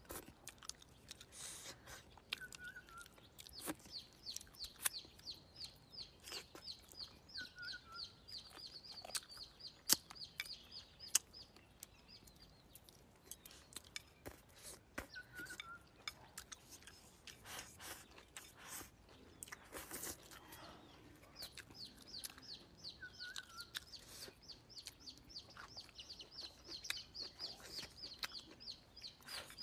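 Close-up eating sounds, chewing and short sharp clicks, under birds calling: twice a rapid run of high, evenly spaced chirps goes on for several seconds, and a short lower falling call comes every seven or eight seconds.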